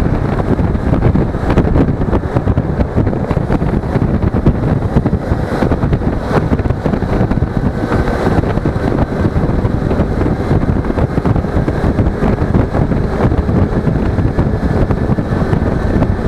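Steady, loud wind buffeting on an action camera's microphone while riding a Suzuki V-Strom 250 motorcycle, with the bike's engine running underneath.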